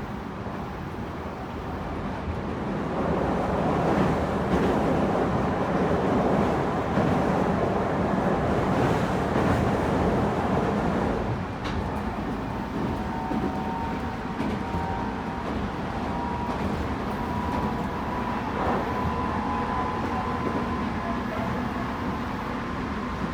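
Tobu 9050 series electric train running, heard inside the car above its Toyo GTO-VVVF inverter: steady rumble of wheels and track, louder in the first half. It turns quieter about 12 seconds in, when a faint whine with a slowly rising pitch comes through.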